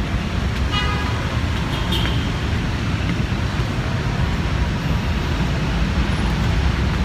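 Steady rumble of road traffic passing close by, with a brief higher pitched tone about a second in.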